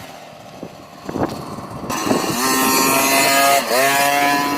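Dirt bike engine accelerating, its pitch climbing steadily over the last two and a half seconds. The pitch drops sharply about three and a half seconds in, then climbs again.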